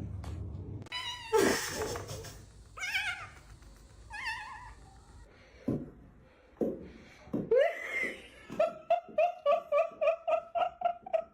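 Cat meowing several times, each call bending in pitch, then a fast run of short repeated calls, about five a second, near the end.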